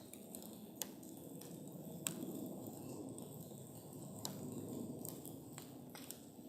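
Wood campfire burning with a low steady rush of flame and scattered sharp crackles and pops. The loudest pops come about a second and two seconds in.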